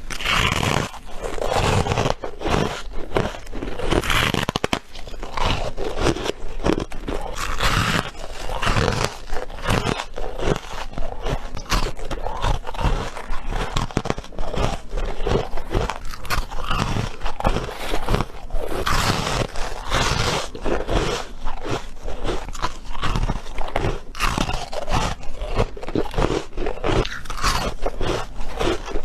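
Close-up bites into freezer frost: repeated loud, irregular crunching and squeaking as the packed frost breaks between the teeth.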